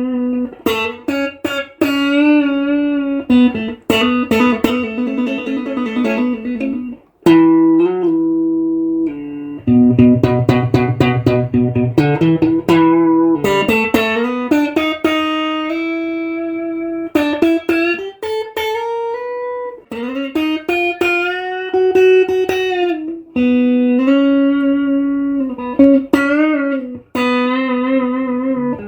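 Electric guitar playing a single-line lead melody: picked notes, several held with bends and wide vibrato, and a short run of lower notes in the middle.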